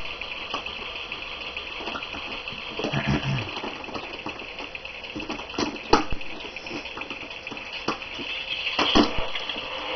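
Toy race cars running on a plastic track set: a steady whirring hiss with a few sharp clicks and knocks.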